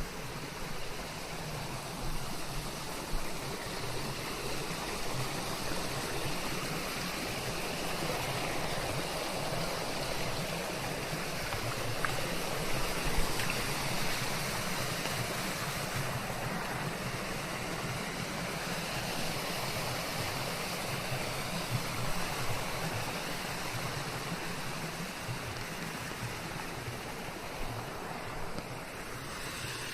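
Steady forest rain blended with white noise: an even hiss with a few faint ticks of louder drops.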